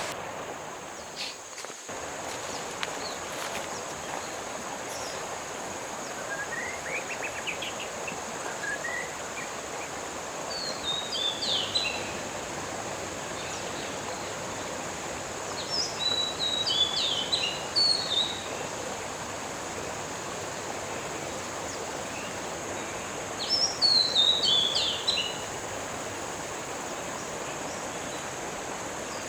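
Outdoor ambience of a songbird singing in short bouts of quick, falling chirps, three bouts about six seconds apart, with fainter rising notes before them, over a steady background hiss with a constant high-pitched band.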